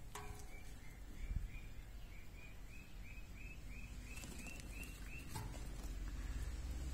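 A small bird chirping a quick run of short, even notes, about four a second, that stops about five seconds in, over a low steady background rumble.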